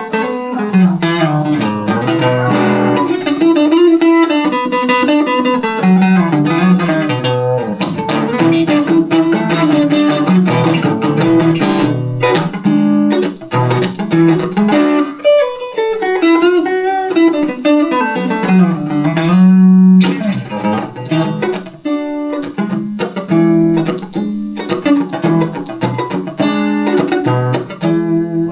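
Van Zandt Telecaster electric guitar played through a Roland JC-120 amp: an instrumental passage of picked notes and chords, with some sliding and bending notes, with no singing.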